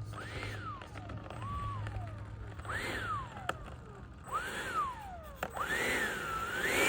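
Electric ducted fan of a Freewing F-22 90 mm RC jet revved in short throttle blips. Each whine climbs quickly and then winds down more slowly. There are four blips, and the last, starting about two-thirds of the way in, is held high with two swells.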